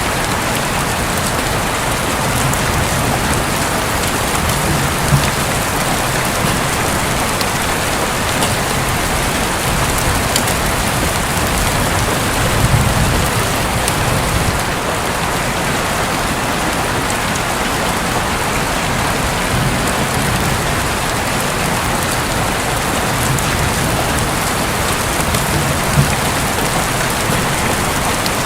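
Steady rain drumming on a roof, an even hiss of drops throughout, with a few slightly louder hits about five, thirteen and twenty-six seconds in.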